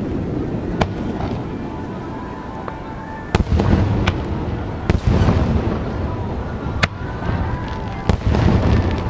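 Aerial fireworks shells bursting overhead: a string of sharp bangs over low, rumbling booms, coming thicker and heavier from about three seconds in.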